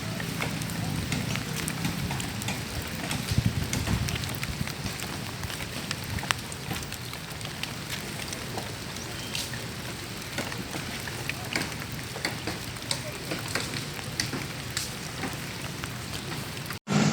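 Rain pattering, with many sharp drops ticking close by over a steady low hum.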